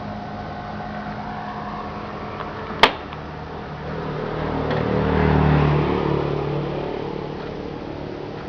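Honda Dream II motorcycle's single-cylinder four-stroke engine running, with a sharp click about three seconds in, then the engine rising to a brief rev around the middle and settling back.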